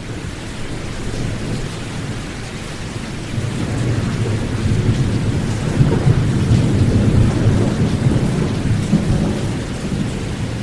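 Steady rain with a long rolling rumble of thunder that builds about a third of the way in, peaks in the middle and slowly fades.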